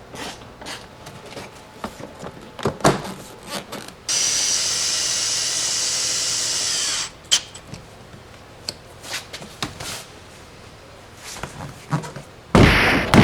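A handheld power drill runs at one steady speed for about three seconds, then winds down as it stops. Small clicks and knocks of tool handling come before and after it. Near the end there is a sudden loud burst of sound.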